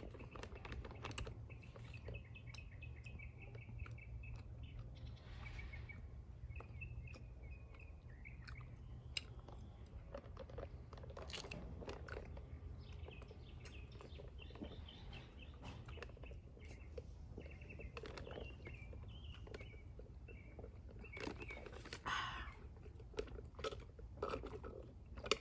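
Close mouth sounds of boba tea being sipped through a wide straw and chewy tapioca pearls being chewed: soft clicks and wet chewing, with a louder slurp near the end. Birds chirp faintly in the background.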